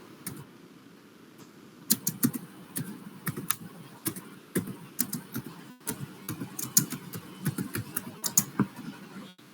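Typing on a computer keyboard: an irregular run of keystroke clicks that starts about two seconds in and stops shortly before the end.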